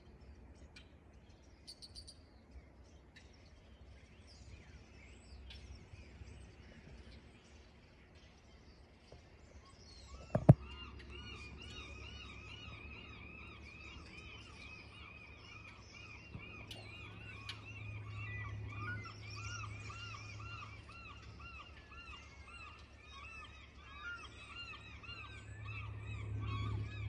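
Birds calling, with one sharp knock about ten seconds in. From then on a quick, steady run of repeated chirps carries on over a low hum that grows louder near the end.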